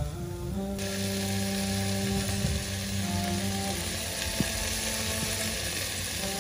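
Meat and potatoes sizzling in the hot inner pot of an electric rice cooker, a steady hiss that cuts in abruptly about a second in, over background music.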